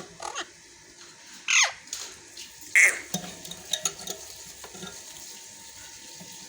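Pet parrots squawking: two loud, harsh calls about a second and a half apart, the first sweeping down in pitch, followed by a few softer chirps and clicks.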